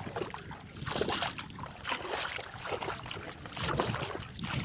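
Water splashing and sloshing against a small boat as it moves, coming in irregular surges about once a second.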